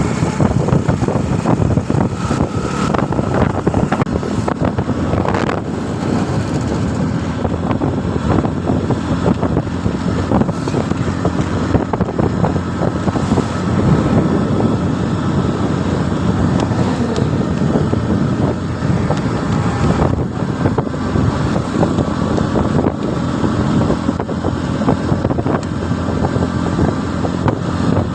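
Motorcycle riding along a road, engine running steadily under a heavy rush of wind noise on the microphone.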